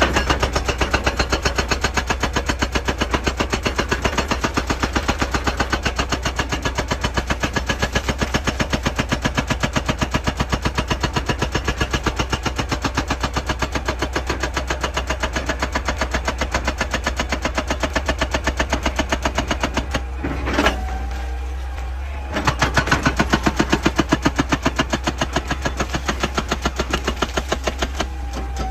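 Excavator-mounted hydraulic breaker hammering rock in a fast, even rhythm over the steady hum of the excavator's engine. The hammering stops for about two seconds about two-thirds of the way through, then starts again.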